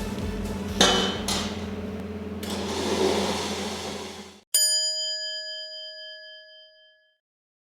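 Steady workshop machine hum with a couple of knocks. About four and a half seconds in it is cut off abruptly by a single bell ding sound effect, which rings out and fades over a couple of seconds.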